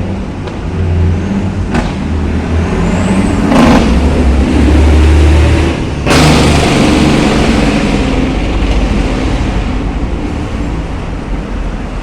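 A motor vehicle's engine rumbling close by, swelling about four seconds in, with a sharp noise near six seconds, then slowly fading away.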